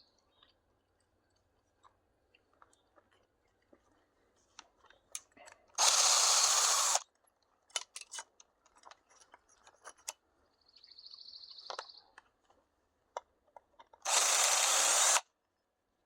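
Power drill boring rivet holes, two bursts of about a second each, with scattered clicks and knocks of handling between them.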